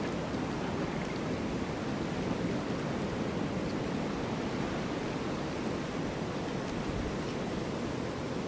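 Snowstorm wind blowing steadily, a continuous low rushing noise without gusts or breaks.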